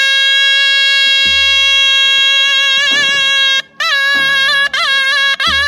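Zurna playing a long, loud held note that starts to waver about two and a half seconds in, then breaks off and moves into quick, ornamented trilling phrases.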